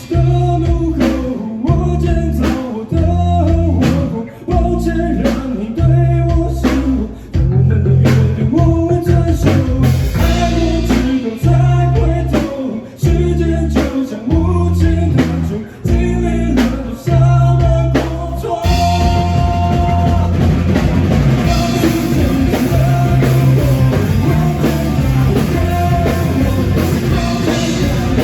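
A rock band playing live, with drum kit, bass, guitar and singing. For about two-thirds of the stretch the band plays a stop-start rhythmic riff with short breaks, then it launches into a continuous, fuller section.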